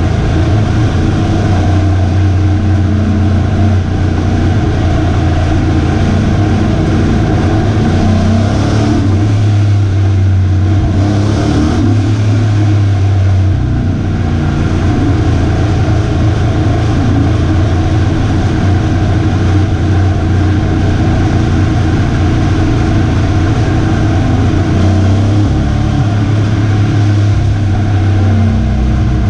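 Pro Truck race truck's V8 engine running loud and steady at near-constant speed, with only small changes in pitch.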